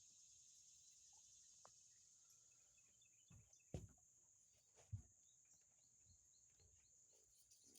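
Insects chirring steadily in a high, thin drone, quiet overall, with two soft low thumps about four and five seconds in.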